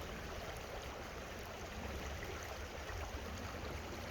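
Creek water running, a steady rushing babble.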